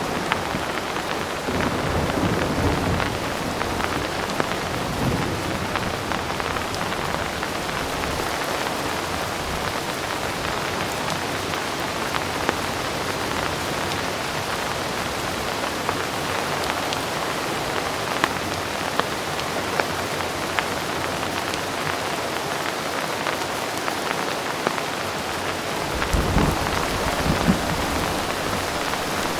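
Heavy rain falling steadily as a dense, even hiss, with low rolls of distant thunder rumbling near the start and again near the end.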